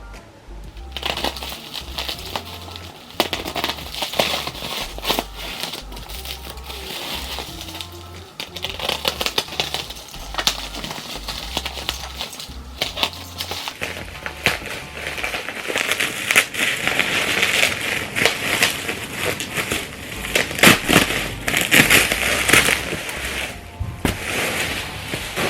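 Plastic shrink-wrap and packaging crackling and crinkling as a boxed DVD set is unwrapped, with irregular clicks that get denser and louder in the second half, over soft background music.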